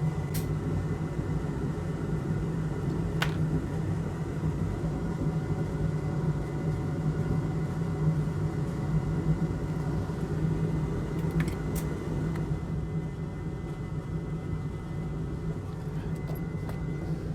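Steady low whirring hum of a bench fan or blower on an electronics repair bench, with a faint high whine and a few light clicks of small tools, one about three seconds in and two near the middle.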